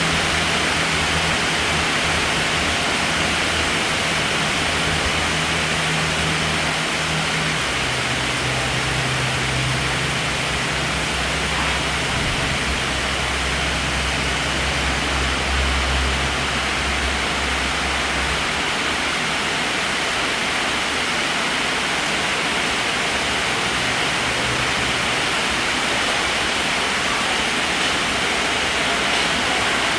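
Heavy rain falling in a steady downpour, an unbroken hiss. A low hum sits underneath for the first half or so and fades out a little after halfway.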